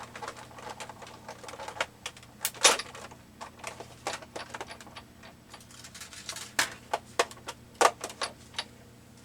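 Irregular clicks and light taps of paper and craft tools being handled on a desk after die cutting, with a louder knock about two and a half seconds in and another near the eight-second mark.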